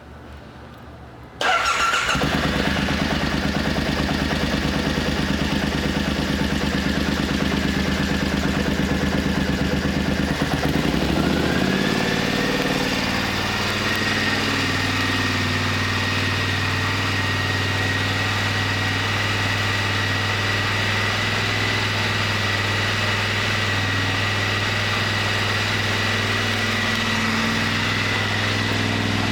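2014 Triumph Scrambler 900's air-cooled parallel-twin engine starting about a second and a half in, then idling steadily. About eleven seconds in the idle note changes and a thin high whine rises, then holds steady.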